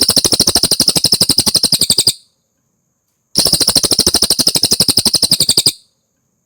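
Cililin bird singing: two loud bouts of rapid, evenly repeated high notes, about a dozen a second, each lasting a little over two seconds with a pause of about a second between them.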